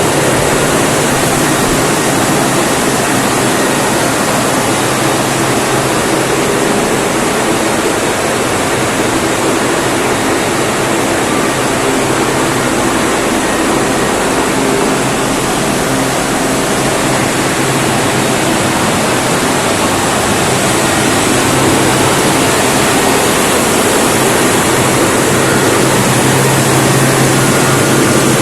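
Mitsubishi 16-cylinder V diesel generator set running steadily and loudly: a dense roar with a steady low hum, the hum growing a little stronger in the last few seconds.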